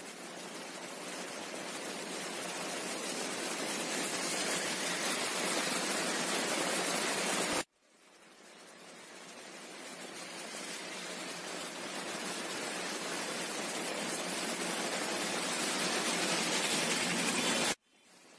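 Steady hiss of heavy rain falling on a road, slowly getting louder, cut off abruptly about seven and a half seconds in, then rising again and cut off once more near the end.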